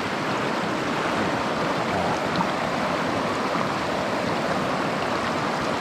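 Mountain stream flowing over rocks and pockets, a steady rush of moving water, with a faint click about two and a half seconds in.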